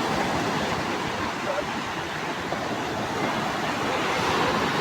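Rough sea surf: waves breaking and washing in as a steady rush of water noise that swells slightly near the end.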